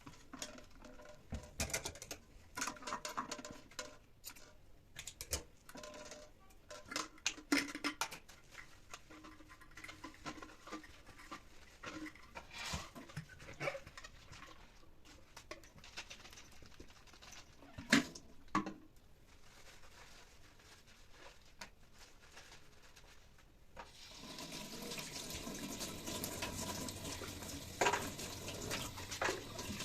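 Light clicks, knocks and clatter of things being handled in a kitchen, then a faucet is turned on near the end and tap water runs steadily into the sink.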